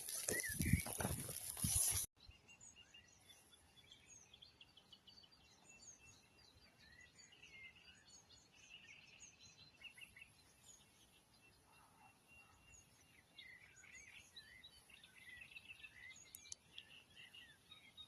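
Many birds chirping and singing, faint, with short high calls scattered all through. Before them, a louder noise with no clear pitch cuts off abruptly about two seconds in.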